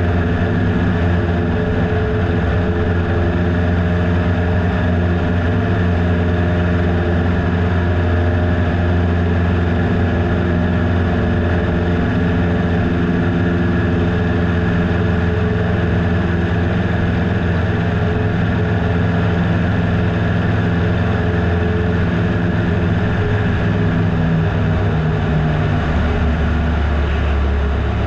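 Piper Super Cub PA-18-150's 150-horsepower four-cylinder Lycoming engine and propeller running steadily at full power, heard from inside the cabin. Near the end the engine note shifts.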